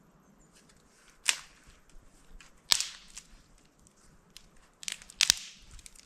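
Four sharp cracks of wood being struck or broken, spaced irregularly: one about a second in, another near three seconds, and a close pair near the end.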